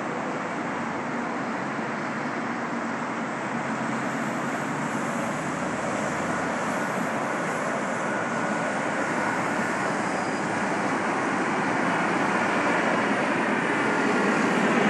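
Boeing 737-800 jet airliner's CFM56 turbofan engines on landing approach: a steady jet rush with a faint whine, growing slowly louder as the aircraft nears.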